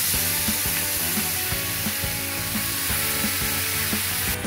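Marinated chicken pieces going into hot oil in a kadai and sizzling with a steady hiss that stops near the end, over light background music.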